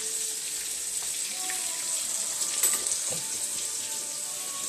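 Pieces of fish frying in a pan of hot oil: a steady sizzle with fine crackling.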